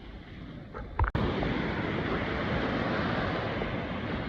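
Lake waves breaking on a sandy beach, with wind rushing on the microphone. The sound starts abruptly about a second in.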